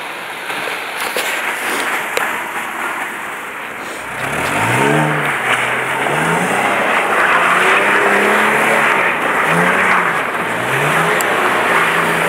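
Audi A4 B6 3.0 quattro's V6 engine revving up and down over and over as the car slides on snow, with the rushing noise of spinning tyres and snow spray. For the first four seconds the rushing noise is the main sound, then the engine note rises and falls repeatedly.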